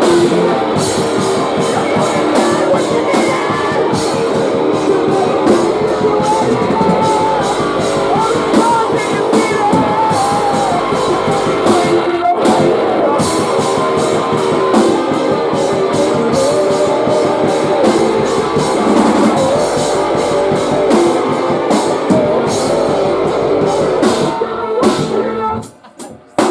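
Live post-hardcore band playing a song at full volume, electric guitars over a drum kit, cutting off sharply near the end as the song finishes.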